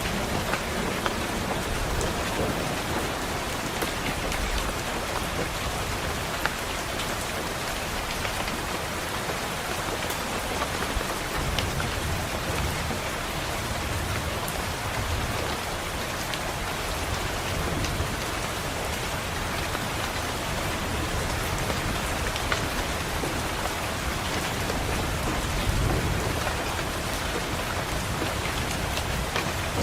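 Steady rain pattering on a window glass, with low rumbles of thunder swelling up several times, strongest about 26 seconds in.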